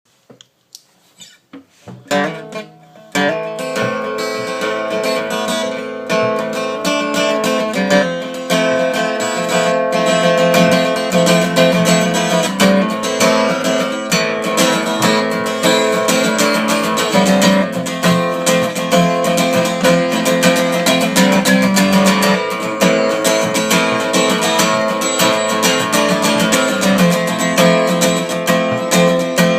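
Guitar music: a few single plucked notes, then from about two seconds in steady rhythmic strumming.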